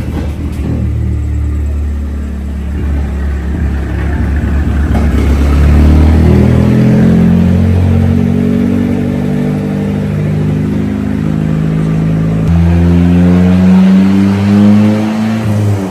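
Turbocharged Nissan Hardbody pickup engine under load on a chassis dynamometer: it runs at low revs, then its pitch climbs slowly from about six seconds in, changes abruptly about twelve seconds in, climbs again and drops off at the end.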